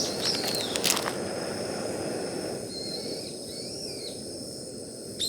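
Small birds chirping with short falling calls, and a few sharp clicks about a second in, over a steady rushing noise.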